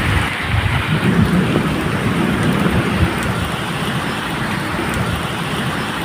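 Steady medium rain falling, a dense even patter, with a low uneven rumble of thunder underneath.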